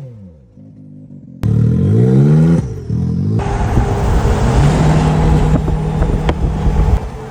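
Pickup truck engine revving: its pitch falls away at the start, climbs again from about a second and a half in, then settles into steady running with road noise.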